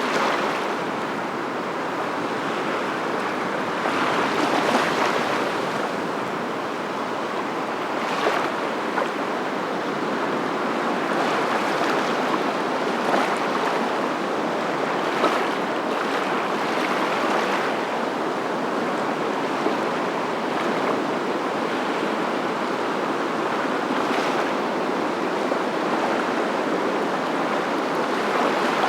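Steady rushing noise of waves, swelling every few seconds.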